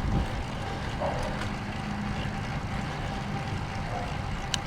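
Wind rushing over the microphone of a moving road bike, a steady low rush with a faint hum under it. One short, sharp click near the end.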